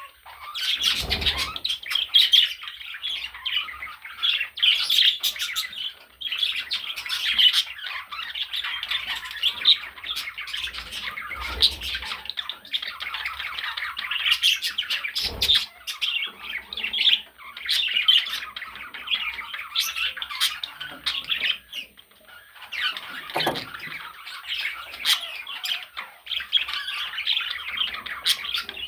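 Budgerigar chattering and warbling without pause, a dense stream of scratchy squawks and chirps, with a few dull low thumps.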